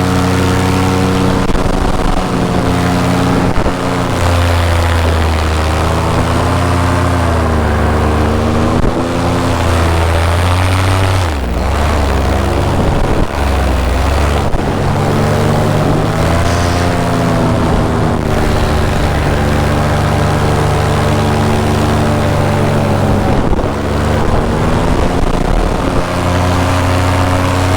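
Paramotor engine and propeller running in flight, a loud steady drone with rushing air. The engine note dips and rises several times as the revs change.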